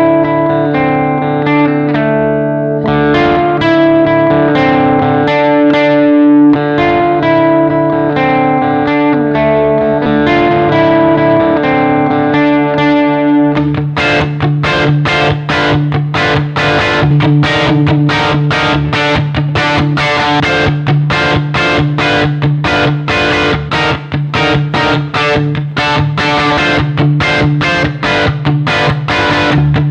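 Overdriven electric guitar: a Gibson Les Paul with PAF-style humbuckers played through a distorted amp. Ringing single-note lines sound over a held low note, then about halfway through it switches to fast, evenly repeated picked strokes with a brighter tone.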